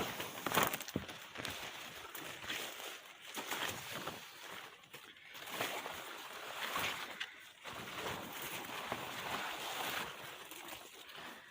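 Footsteps crunching through dry leaf litter and brush in the undergrowth: an uneven rustling that swells and fades every second or two.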